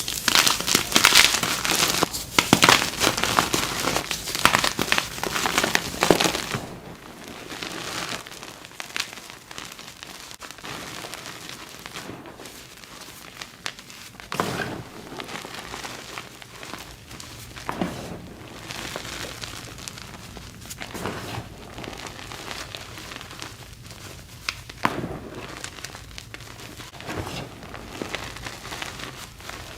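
Blocks of gym chalk being crushed by hand, with dense crunching and crumbling for about the first six seconds. After that, quieter crumbling follows, broken every few seconds by a single sharper crunch.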